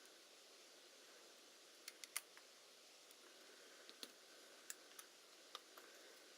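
Faint, irregular sharp clicks and taps from small parts or tools being handled, against a low hiss, with the loudest click a little after two seconds in. There is no motor running and no squeak.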